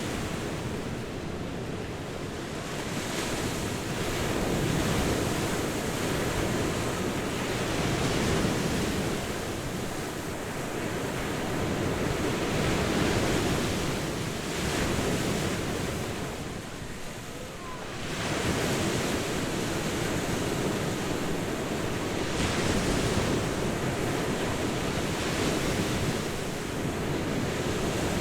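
Ocean surf breaking and washing onto a beach, a steady rush of water noise that swells and ebbs in slow surges, with a brief lull about seventeen seconds in.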